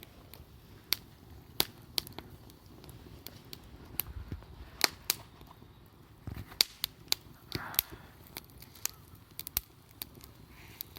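Wood bonfire crackling, with irregular sharp pops from the burning firewood.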